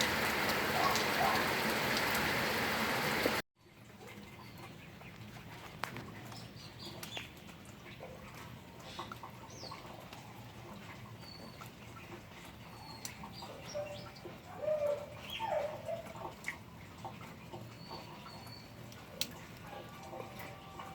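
Steady rain for about three seconds, then an abrupt cut to a much quieter background with scattered short bird chirps and calls.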